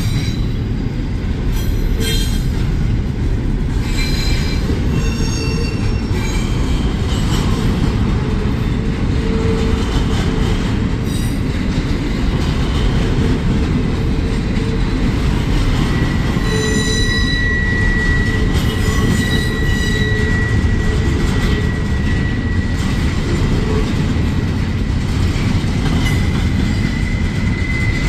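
Double-stack intermodal container well cars rolling past: a steady heavy rumble of steel wheels on rail, with short high squeals over it, and a steady high squeal that sets in a little past halfway and holds on.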